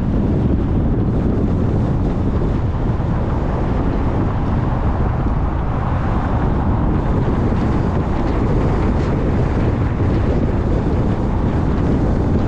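Steady road and wind noise of a car being driven, picked up by a dash cam inside the car, with wind buffeting the microphone.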